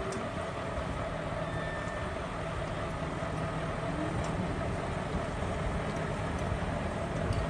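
An engine running steadily, with a few light clicks.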